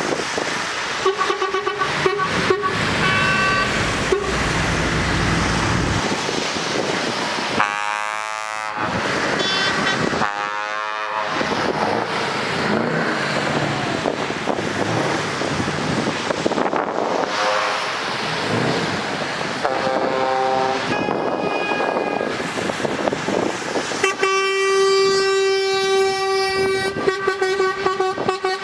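Truck horns sounding several times over steady traffic noise, with a long blast near the end. Two vehicles pass with a whoosh about a third of the way in.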